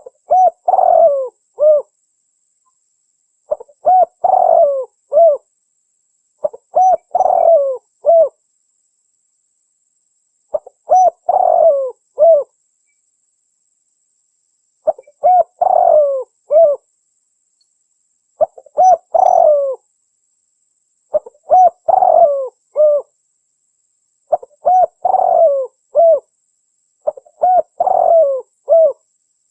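Spotted dove (tekukur) call played as a bird-trapping lure recording: a short phrase of several low cooing notes ending in a separate final coo, repeated nine times about every three seconds with silence between.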